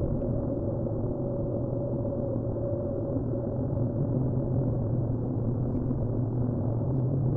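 Honeybee colony humming steadily inside the hive, a dense low drone that grows a little louder near the end.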